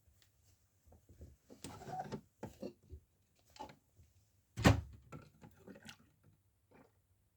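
Scattered plastic clicks and knocks from handling a toy washing machine, with one louder thump about halfway through.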